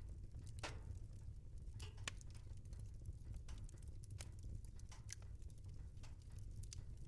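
Wood fire crackling: irregular sharp pops and snaps, a few a second, over a low steady rumble.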